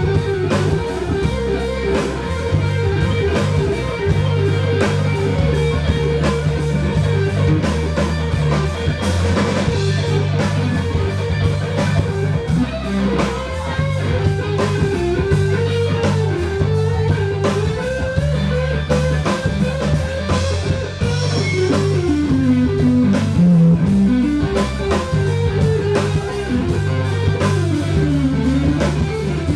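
Live rock band music: an electric guitar plays a wandering lead line with bent notes over bass guitar and drums.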